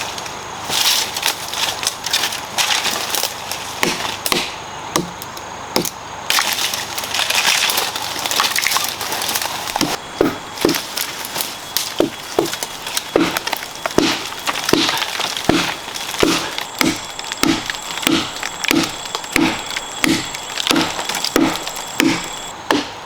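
Wood being struck and broken: irregular sharp cracks and snaps, then from about halfway a steady run of blows on wood, a little under two a second.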